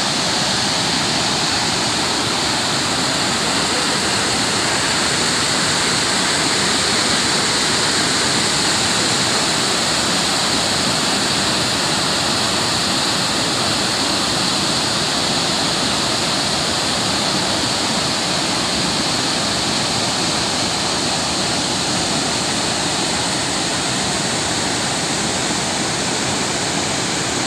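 Waterfall rushing steadily: an unbroken wash of falling water.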